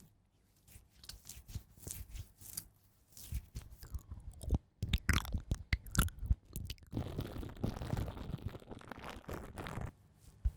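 Close-miked ASMR handling sounds for a makeup roleplay: crisp crackling and scratching clicks, turning into a dense continuous rustle from about seven to ten seconds in.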